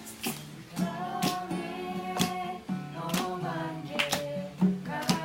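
Voices singing a slow Korean hymn to a strummed acoustic guitar, with a strum about once a second under the held notes.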